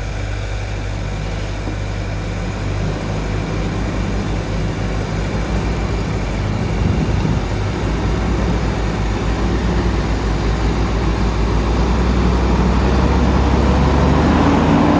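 Heavy diesel truck engine running steadily with a low rumble, growing gradually louder.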